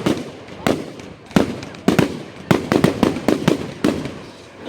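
Fireworks exploding in the sky: a rapid, irregular string of sharp bangs, roughly one or two a second, each followed by a short echoing rumble.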